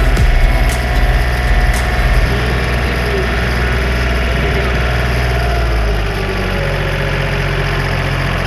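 John Deere 3025E compact tractor's three-cylinder diesel engine running steadily at low revs, with a few clanks in the first couple of seconds; the engine note drops slightly about six seconds in.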